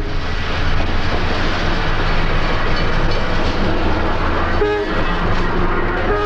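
South Shore electric interurban train running on the rails with a steady, dense rumble and rattle. A short horn note sounds about four and a half seconds in, and another comes near the end.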